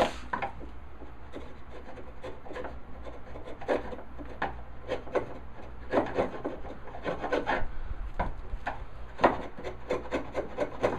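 Chisel paring walnut in a dado: a run of short, irregular scraping strokes that come faster near the end.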